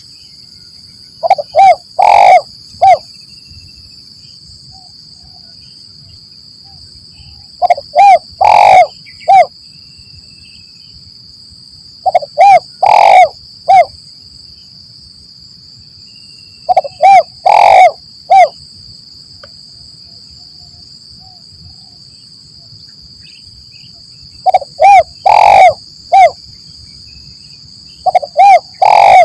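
Spotted dove (tekukur) singing its cooing song: six phrases of three to five deep coos, each phrase ending in a separate last note, repeated every few seconds over a steady high-pitched hiss.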